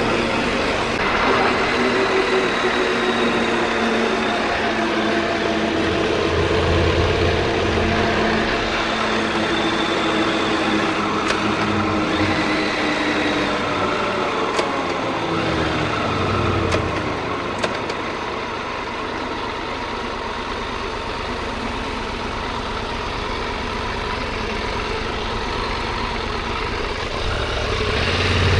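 Motorcycle engine running while riding over a steady rush of wind and road noise; the engine note falls in pitch in the middle as the bike slows, then settles.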